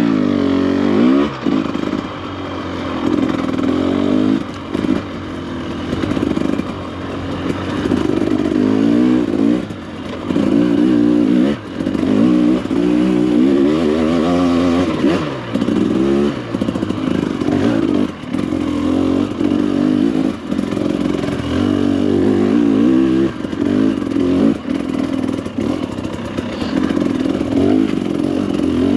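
Dirt bike engine revving up and falling back again and again as it is ridden along a rough trail, with frequent knocks and clatter from the bike over rocks and bumps.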